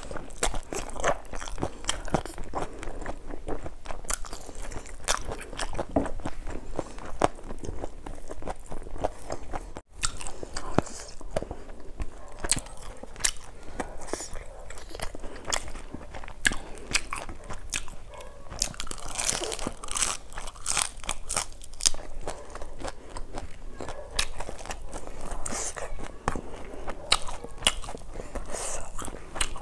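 Close-miked chewing and crunching of crispy fried food, with a rapid run of crisp crackles and bites throughout. A bare hand also mixes and scoops rice on a steel plate.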